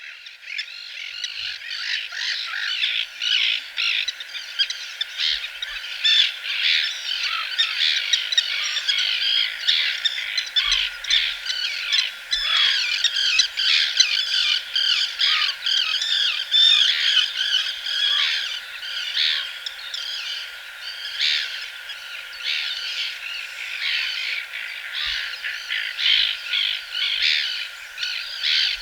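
Bird song: a dense, continuous stream of quick, high chirps and trills with no pauses.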